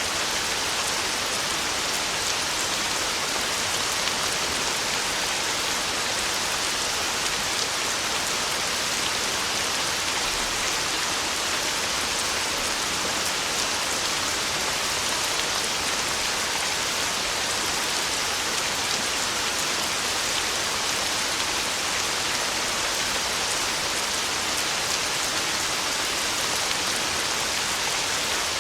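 Heavy rain pouring steadily on a tin roof, a dense even patter with no thunder.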